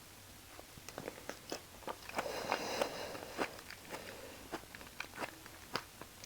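A person chewing beef offal, with sharp wet mouth clicks and crunchy bites coming irregularly. The chewing is densest about two to three seconds in.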